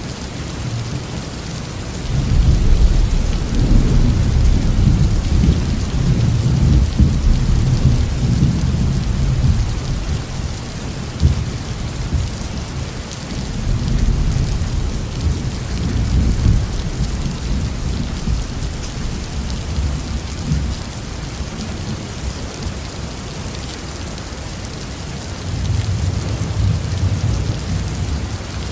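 Heavy rain falling on a roof in a steady hiss, with deep rolling thunder that swells in about two seconds in and rumbles on for several seconds, returns more weakly midway, and builds again near the end.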